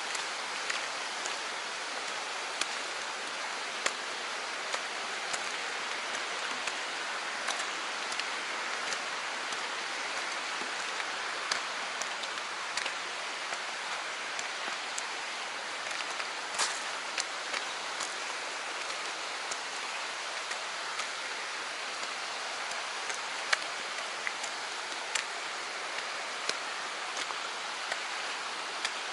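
Steady hiss of a mountain stream's flowing water, with scattered short clicks and ticks throughout.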